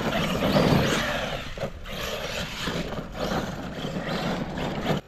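ARRMA Kraton EXB V2 RC monster truck being driven, its brushless motor and drivetrain whining in repeated surges as it speeds up and backs off. The sound cuts off suddenly at the end.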